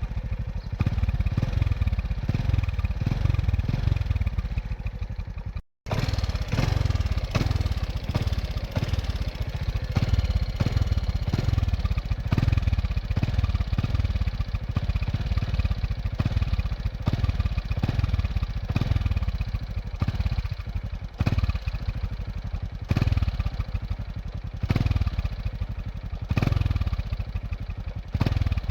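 Excavator's diesel engine running, rising and falling in repeated surges as it works under load, with a brief dropout about six seconds in.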